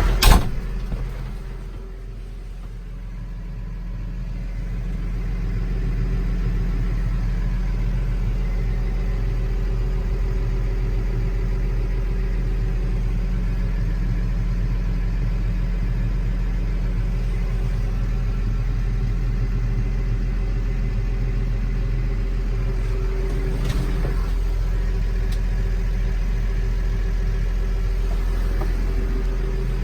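New Holland T6070 tractor's diesel engine running steadily at idle. A sharp knock comes just after the start. The engine sound then dips briefly and builds back to a steady level.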